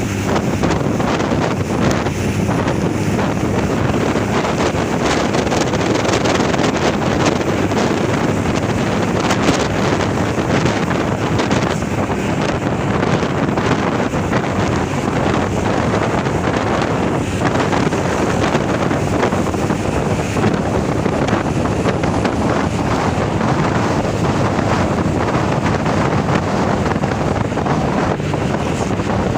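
Truck on the move: steady engine and road noise with wind buffeting the microphone.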